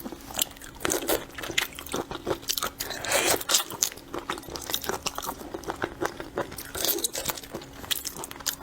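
Close-miked crunching and chewing of shrimp, with many sharp bites and a dense run of crunches about three seconds in.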